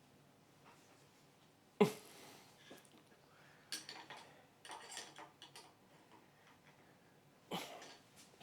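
A sharp metallic knock, then short runs of clicking and rattling, and another knock near the end: metal tooling being handled and set up on a milling machine, with the spindle not yet running.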